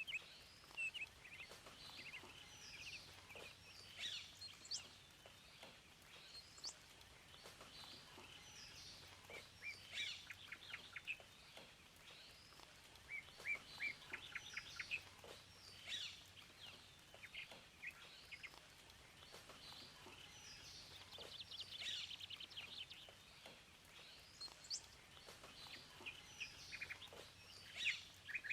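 Several songbirds singing and chirping at once, with short whistled notes, sweeps and quick trills of repeated notes. The sound is faint.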